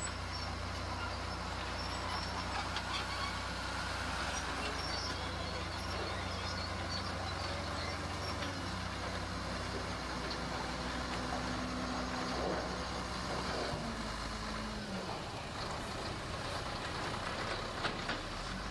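Heavy diesel construction machinery running: a steady, low engine drone whose pitch shifts a few times, with a couple of sharp knocks near the end.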